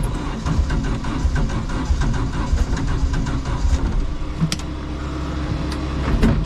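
Rally-prepared Opel Kadett's engine running at a standstill, heard from inside the stripped cabin, with a couple of sharp knocks; the engine cuts out right at the end.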